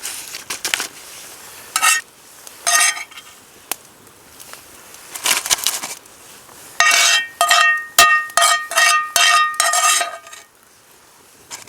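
Metal utensil scraping and clinking in a metal pan while egg bhurji is stirred, with scattered strokes at first. About seven seconds in comes a quick run of ringing strokes lasting about three seconds.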